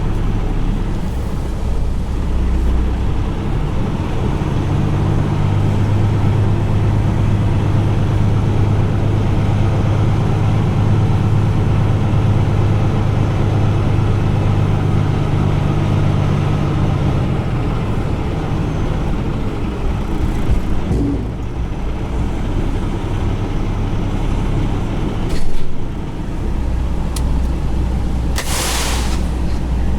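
Semi-truck's diesel engine running with a steady low drone that strengthens a few seconds in and eases about two-thirds of the way through. A short hiss of air near the end.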